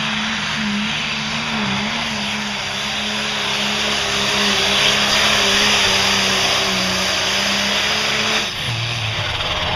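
Diesel pulling tractor running flat out under load with a steady, sustained engine note. It cuts off abruptly near the end as the engine is shut down.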